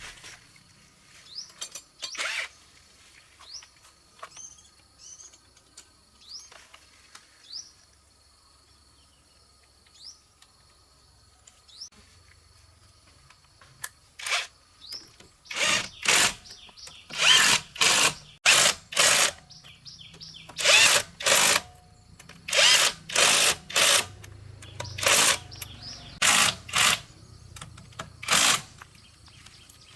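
A power tool runs in repeated short bursts, about one a second, starting about halfway through. Before that, faint bird chirps.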